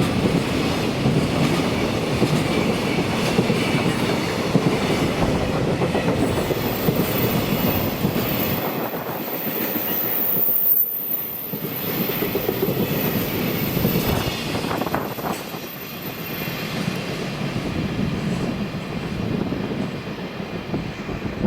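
Freight train wagons rolling past close by, wheels clattering over the rail joints with a steady heavy rumble that eases briefly about halfway through.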